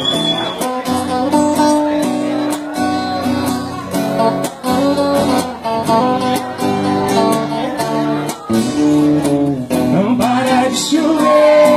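Acoustic guitar strumming chords in a steady rhythm as a song introduction, with a man's voice starting to sing over it near the end.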